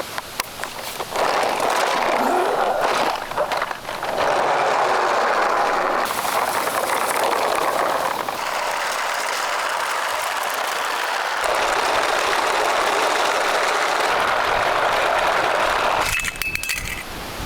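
Small toy car wheels rolling and scraping over a rough surface, in long stretches with a short break. A brief high beep sounds near the end.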